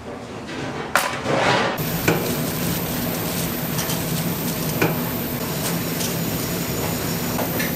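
Food frying in a pan: a steady sizzle, with a few sharp clinks of utensils, the loudest about two seconds in.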